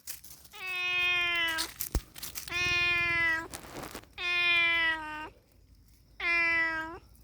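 A cat meowing four times, each meow a drawn-out, pitched call of about a second, falling slightly at the end. There is a single sharp click between the first and second meow.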